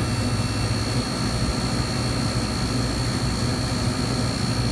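Steady mechanical hum with a constant high-pitched whine over it, unchanging throughout.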